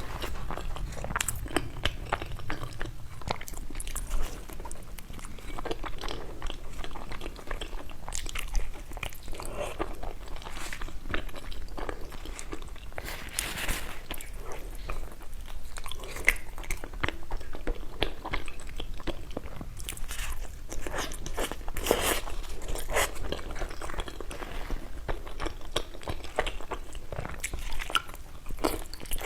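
A person biting and chewing food, with irregular small crunches and mouth clicks throughout.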